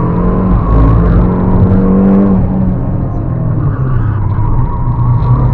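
Turbocharged Fiat Panda 100HP engine under hard acceleration. The revs climb, drop suddenly a little over two seconds in, then climb slowly again.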